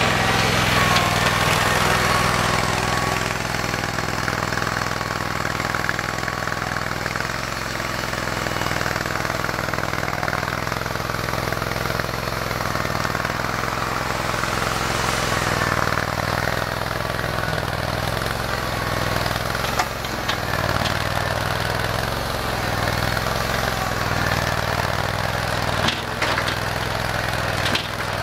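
Simplicity Legacy garden tractor engine running steadily, with a few short knocks in the last third.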